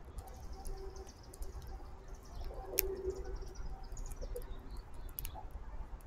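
Faint backyard birdsong with a low, drawn-out cooing tone that comes and goes, and scattered light clicks as a grackle pecks at seed in a feeder dish.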